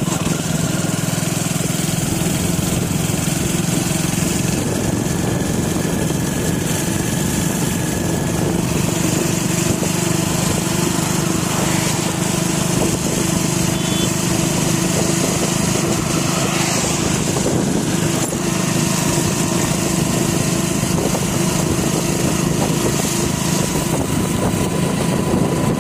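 Hero HF Deluxe motorcycle's small single-cylinder four-stroke engine running steadily while riding at a constant speed, with wind noise over it.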